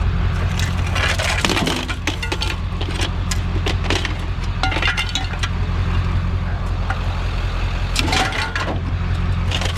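A vehicle engine running steadily, with a few sharp clattering knocks about a second in, around four to five seconds in, and again about eight seconds in.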